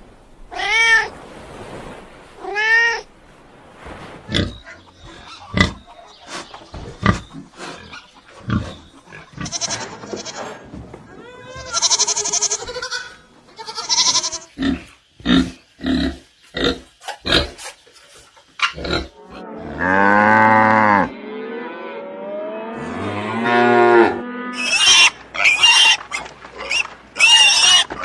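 A run of animal calls. Two short falling meows come in the first three seconds, then a stretch of short sharp calls. A cow moos twice, one long call about 20 seconds in and a second about 23 seconds in, and quick high-pitched calls crowd the last few seconds.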